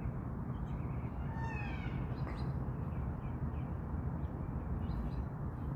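A single short mewing animal call, falling slightly in pitch, about a second and a half in, over a steady low background rumble.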